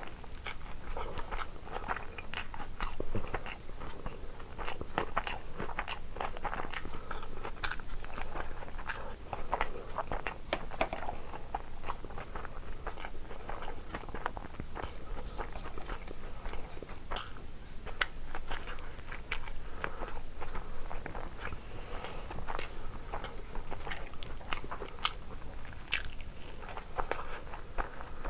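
A person chewing and biting food close to the microphone, with frequent crisp crunches and wet mouth clicks coming irregularly throughout.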